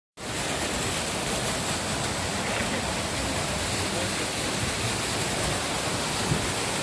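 Waterfall: falling water rushing in a steady, even roar of noise that sets in abruptly just after the start.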